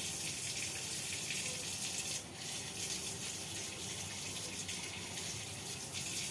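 Water running steadily from a tap, with a brief dip about two seconds in.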